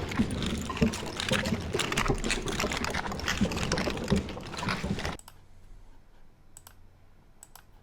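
A dense crackling noise texture, a found-sound recording played back as a sample, which stops abruptly about five seconds in. A few faint computer clicks follow.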